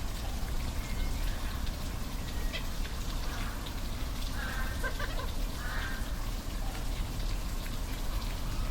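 Steady rush of a waterfall, with a few short animal calls about three to six seconds in.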